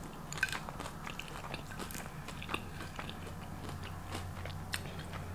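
Close-miked chewing of a crispy fried avocado egg roll: scattered small crunches and mouth clicks over a low steady hum.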